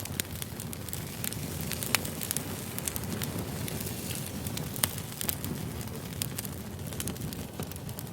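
Wood fire crackling: irregular pops and snaps over a low steady rush, with a couple of sharper pops, one about two seconds in and one near five seconds.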